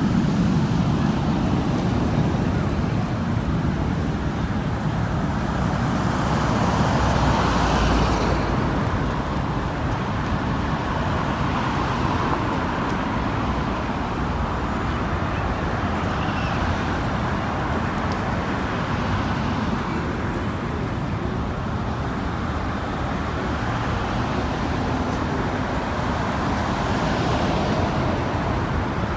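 Steady road-traffic rumble, rising and falling gently a few times.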